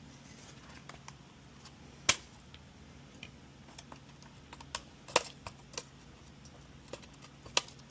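Scattered sharp clicks and taps of hands working an oven control board and its plastic fittings loose, the loudest about two seconds in and a cluster around five seconds, over a faint low hum.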